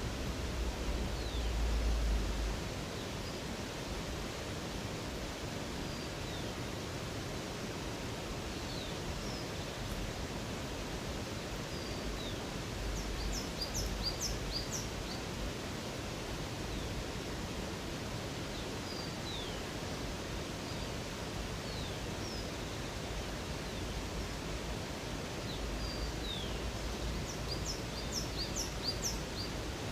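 Steady rush of a river or waterfall with birds singing over it: scattered short falling whistles, and two bursts of rapid high chirps, one about halfway and one near the end. A low rumble swells at the start, halfway and near the end.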